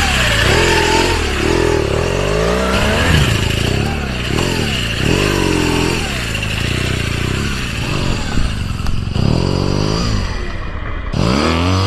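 Motorcycle engine revved up and down over and over, its pitch climbing and dropping about once every second or so.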